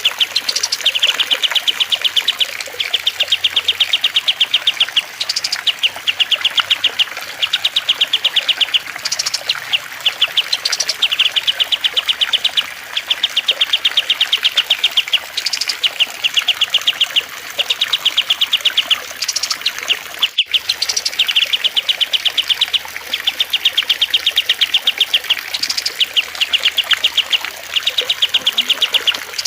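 Bird-song training track of small songbirds, cililin, kapas tembak and lovebird, over trickling water. A fast, even, high trill about a second long repeats over and over, with short sharp upward notes in between. There is a brief cut about two-thirds of the way through.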